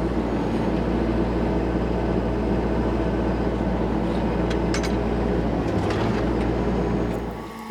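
Kubota KX121-3 mini excavator's diesel engine running steadily, with a couple of faint clanks about five and six seconds in.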